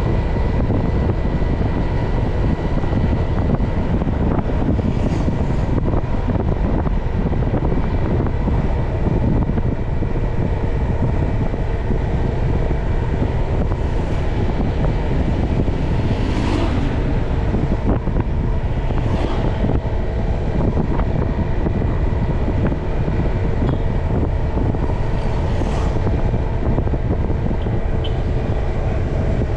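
Riding a motorbike: heavy wind rumble on the microphone over steady engine and road noise, with about five brief hissing sweeps, the first a few seconds in and the last near the end, from vehicles passing close by.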